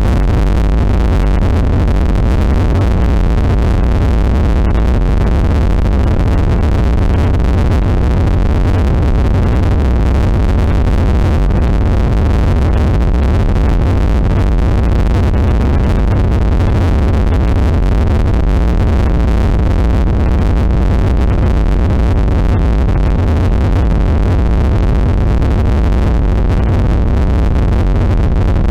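Loud, steady wall of droning synthesized noise with a heavy deep rumble underneath, without breaks: harsh experimental apocalyptic noise music.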